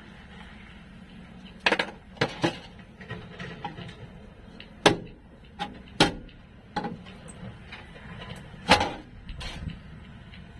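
A series of irregular knocks and clatters, about a dozen spread over ten seconds, over a steady low hum.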